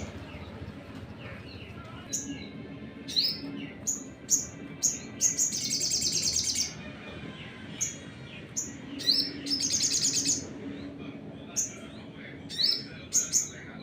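A sunbird singing: a run of sharp, high, clipped chirps broken twice by rapid trills about a second long.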